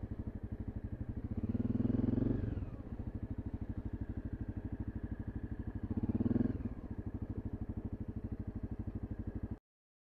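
A vehicle engine running steadily with a fast, even pulse. About two and six seconds in, a louder swell rises and falls, like other vehicles passing. The sound cuts off suddenly near the end.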